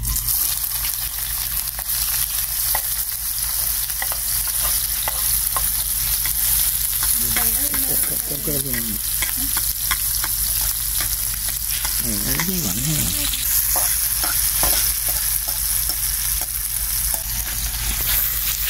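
Seasoning frying in hot oil in a pot: a steady sizzling hiss with scattered crackles.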